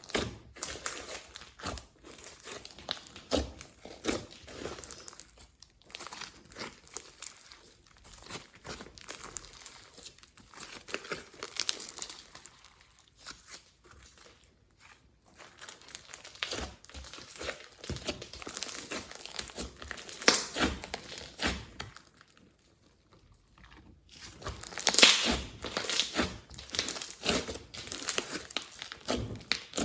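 Hands kneading and stretching slime being mixed with makeup and glitter: sticky crackling, popping and squelching in irregular bursts, with a brief lull near the end.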